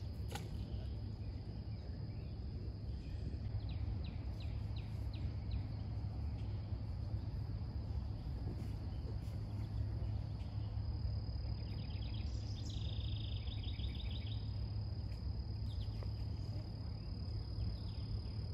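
Riverside ambience: a steady low rumble, a bird calling a run of short chirps about four seconds in and a fast trill about twelve seconds in, and a thin steady high tone like an insect from about halfway. A sharp click right at the start.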